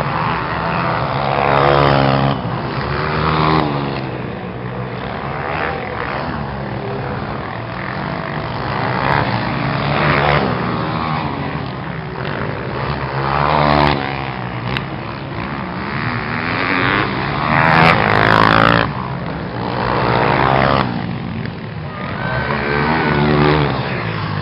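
Several motocross motorcycle engines revving hard, their pitch rising and falling again and again as bikes accelerate and pass, loudest about three quarters of the way through.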